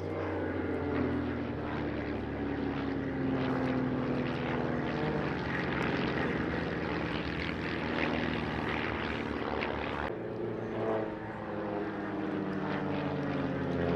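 A formation of Van's RV-8 single-engine propeller aircraft flying a display, their piston engines and propellers droning together, with the pitch sliding slowly up and down as the aircraft pull up and fall away.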